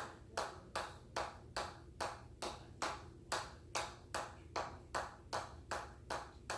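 A ball bouncing on a hammer head over and over: sharp, pinging taps at an even pace of about two and a half a second.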